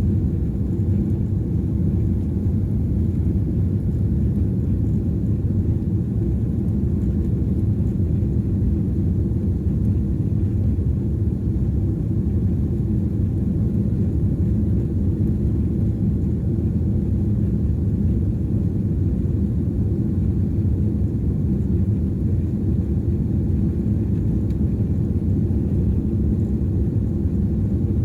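Airliner cabin noise during the climb just after takeoff: the steady low rumble of the jet engines and airflow heard from inside the cabin, unchanging throughout.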